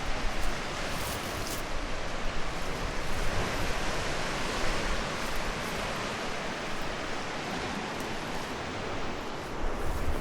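Steady rush of moving water: a dense, even hiss with a low rumble underneath.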